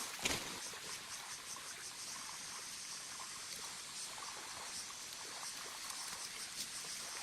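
Steady high-pitched insect chirring, with a few sharp knocks in the first half-second.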